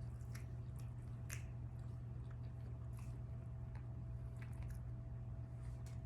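Faint eating and food-handling sounds, scattered soft clicks and wet squishes, over a steady low hum.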